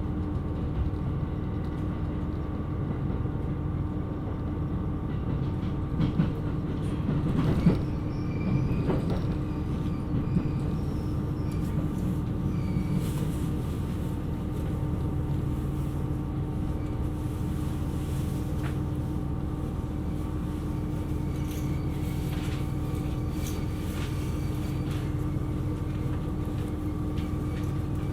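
KiHa 127 series diesel railcar running: a steady drone of engine and drivetrain over wheel-on-rail rumble, with a few short knocks and clicks about a quarter of the way in.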